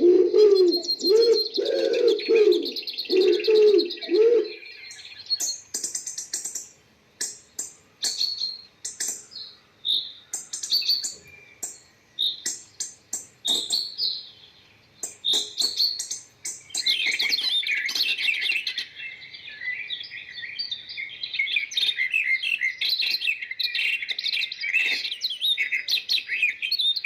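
Birds calling: low repeated cooing for the first few seconds over high chirping, then scattered sharp high chirps, and from about two-thirds of the way through a dense, continuous twittering chatter.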